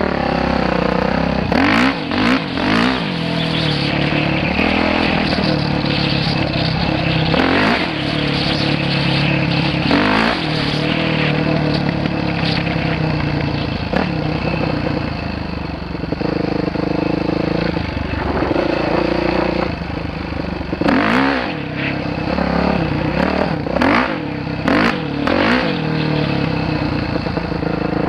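Dirt bike engine running under load while riding, its pitch rising and falling again and again as the throttle opens and closes, with sharp dips and clattering knocks.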